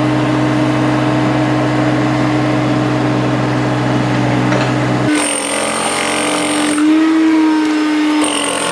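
Steady drone of a running engine-driven machine with a constant low hum. About five seconds in the sound changes abruptly: the low hum drops away and a thin high whine comes in for a second or two, and it does so again near the end.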